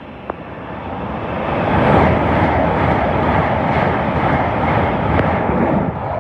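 LNER Azuma high-speed train passing through the station non-stop at speed. The rush of wheels and air builds over the first two seconds and stays loud as the carriages go by.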